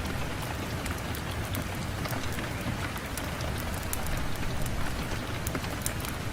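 Steady rain falling on a window, with many scattered sharp ticks of individual drops.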